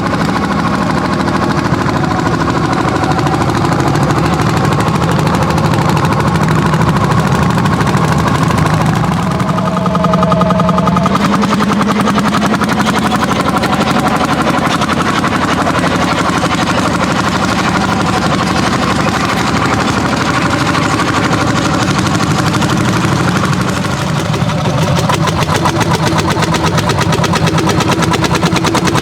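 Landini hot bulb tractor engines, single-cylinder two-stroke, running hard under load while plowing, with a rapid steady beat of exhaust firings.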